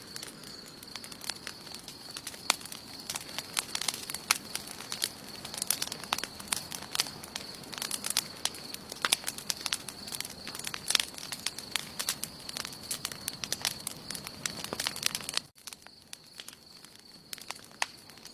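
Wood campfire burning, with irregular sharp crackles and pops over a low hiss of the flames and a steady high-pitched tone behind. About fifteen seconds in, the sound cuts out for an instant and the crackling then comes sparser.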